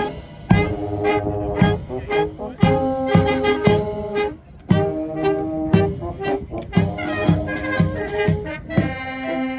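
Brass band playing a tune, with a drum beat about once a second.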